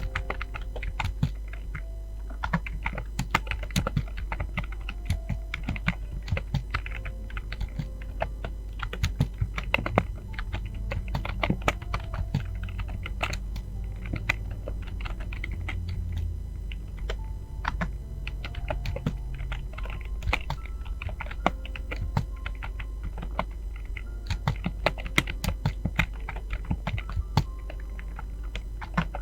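Fast, continuous typing on a Fantech computer keyboard: a dense, irregular run of key clicks and taps, over a steady low hum.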